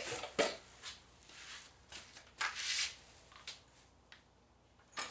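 Hand tools and small metal parts of a vending machine's rotor drive being handled: a string of sharp clicks and a few short scrapes, the loudest scrape a little past halfway.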